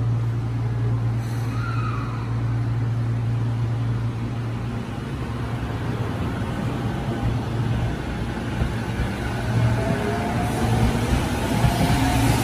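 Tokyo Metro 05 series electric train pulling out of the station over a steady low hum. Over the last few seconds the traction motors give a whine that rises in pitch and the running noise grows as it picks up speed.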